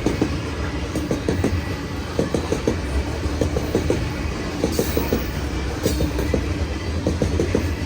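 Train cars rolling past with a steady low rumble and the wheels clacking over the rail joints in quick, uneven clusters.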